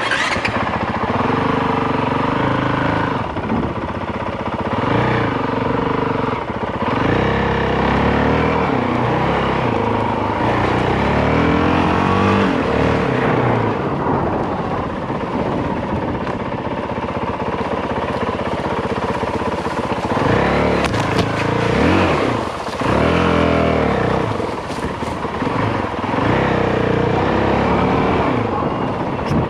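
Single-cylinder dual-sport dirt bike engine running under way, its note rising and falling over and over as the throttle opens and closes on a rough track.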